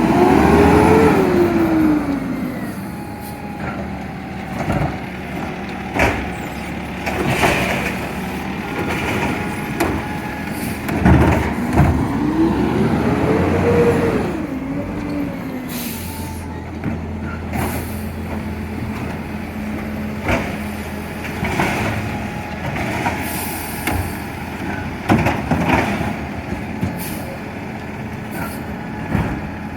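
Garbage truck running, its engine revving up and back down twice over a steady idle, with scattered clanks and knocks.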